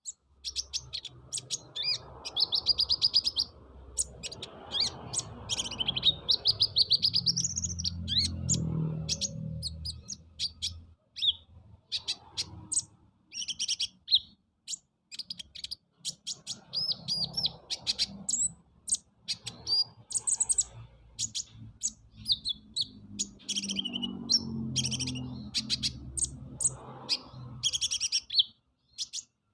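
A kolibri ninja sunbird singing a fast, varied song of sharp chirps and rapid trills, strung with lovebird-style and canary roll phrases. An intermittent low rumble sits underneath.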